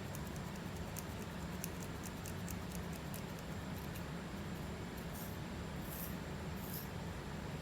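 Scratching and picking at a flaky scalp: a quick run of small, sharp clicks in the first three seconds, then a few separate soft scrapes.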